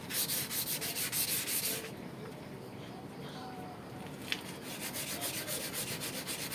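Rusty sheet metal of an exhaust hood being sanded by hand: quick back-and-forth scratchy strokes, about eight a second, in two runs of about two seconds with a pause between, and a single sharp click just before the second run.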